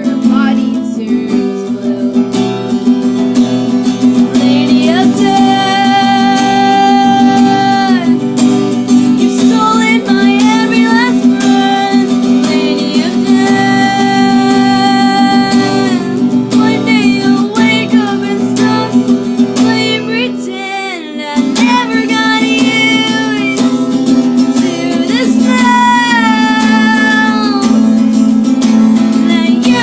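Acoustic guitar strummed under a voice singing long held notes; the music thins briefly about two-thirds of the way through.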